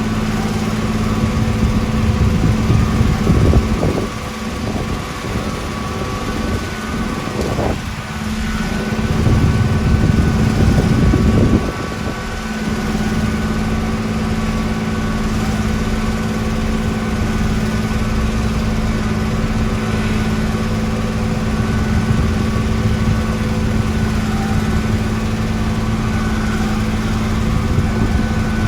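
Heavy road-construction machine's engine running steadily with a constant hum, growing louder briefly about three seconds in and again for a couple of seconds about nine seconds in.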